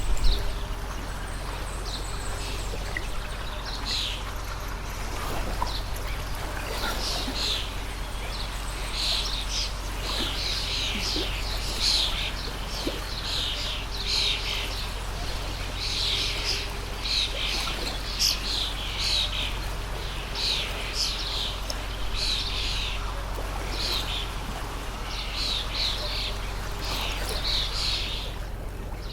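Songbirds chirping in quick repeated calls over the steady rush of a running water stream.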